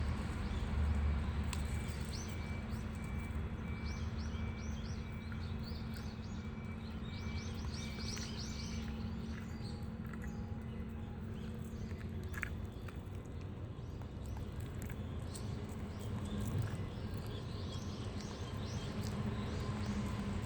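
Small birds chirping in quick repeated series, busiest in the first half, over a steady low hum, with faint scattered clicks.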